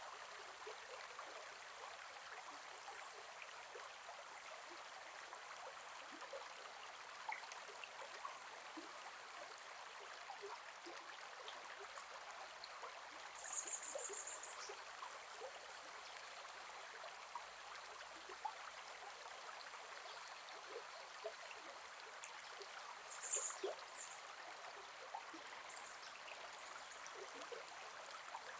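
Gentle forest river flowing: a steady babble of water with small trickles and splashes. Two brief high chirps stand out, about halfway through and again about ten seconds later.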